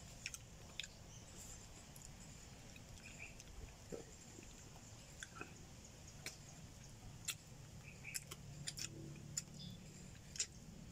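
Faint chewing and biting on cooked chicken feet, with scattered sharp little clicks as the skin and small bones are bitten. A faint low hum comes in about two-thirds of the way through.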